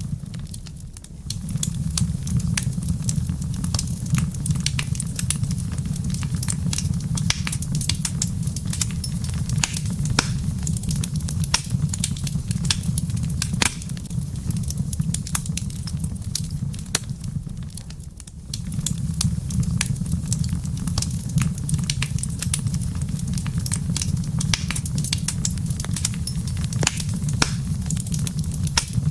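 Wood fire crackling in a fireplace: irregular sharp pops and snaps over a steady low rumble of the flames, which drops away briefly twice.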